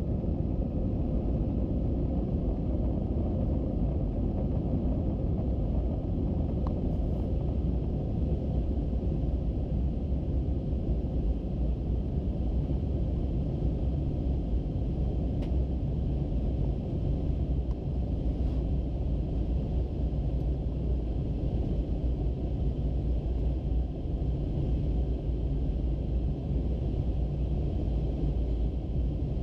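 Steady low rumble of an Airbus A321-200's engines and airflow, heard inside the cabin, with a faint steady hum over it and no change in level.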